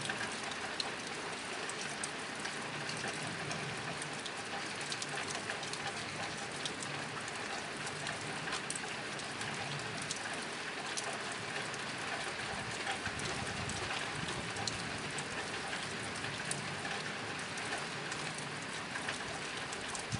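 Steady rain drumming on a tin roof: a dense, even patter of drops with many small sharp ticks, unchanging in level.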